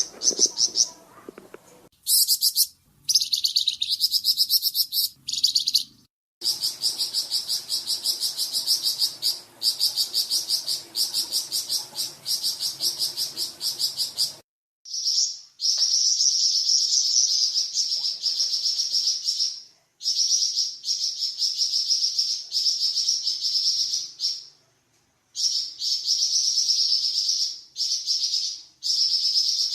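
Flamboyan songbird singing long, rapid high-pitched trills, each run lasting several seconds with brief pauses between them.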